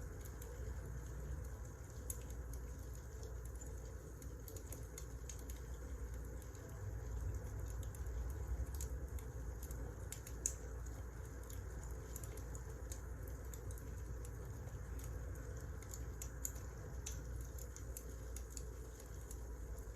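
Wood fire burning in a fireplace: a steady low rumble of flames with irregular small crackles and pops, one louder snap about halfway through.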